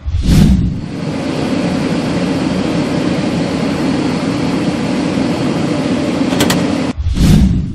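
Cartoon vehicle sound effects: a sudden whoosh, then a vehicle engine running steadily for about six seconds, then a brief high tone and a second whoosh near the end.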